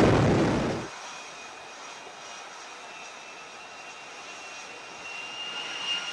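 F-35B's Pratt & Whitney F135 jet engine: a loud rush that cuts off sharply about a second in, followed by a quieter steady high-pitched whine that grows louder near the end.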